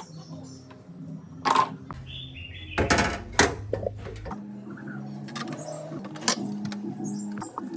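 Sharp clicks and a short burst of clatter, loudest about three seconds in, typical of hand tools and parts being handled in generator repair work, over soft background music.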